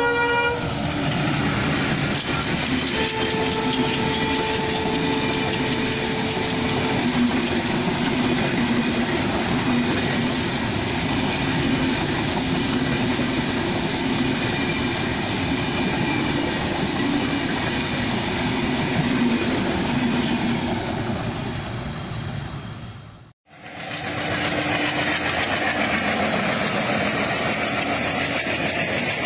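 Diesel-hauled intercity passenger train passing close by at speed. The locomotive's horn ends in the first half-second, then comes the steady rumble and wheel clatter of the coaches going by. The sound drops out briefly about 23 seconds in and another close pass-by of the locomotive and coaches follows.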